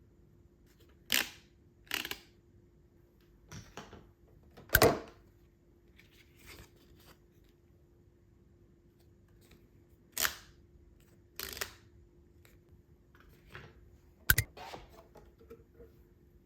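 Intermittent handling noises: sharp clicks, taps and short rustles of newly bought household items and their packaging being picked up and set down, over a faint steady hum.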